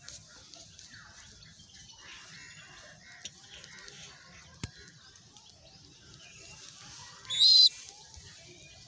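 Birds chirping faintly, with one short, loud, high-pitched call about seven seconds in.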